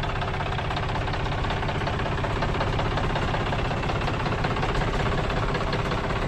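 John Deere 5104 tractor's diesel engine running steadily.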